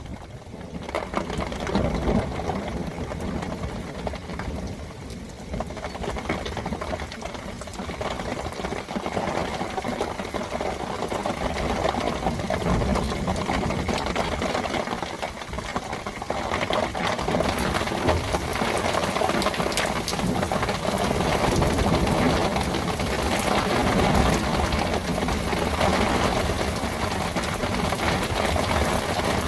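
Heavy rain falling in a dense, rapid patter on hard surfaces, growing louder and brighter about halfway through as the downpour strengthens.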